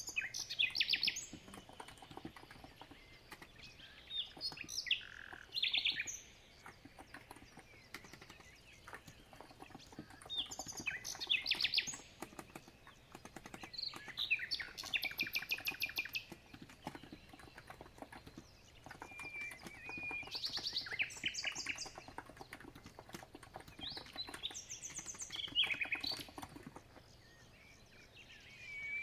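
Birdsong: bursts of fast trills and chirps every few seconds, the loudest sound. Under it, a steady patter of soft key clicks from typing on a COX Empress electro-capacitive keyboard.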